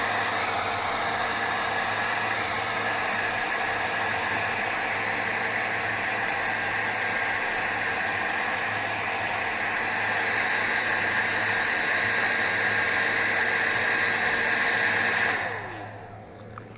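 Handheld hair dryer blowing steadily, switched off about fifteen seconds in, its motor winding down with a falling pitch.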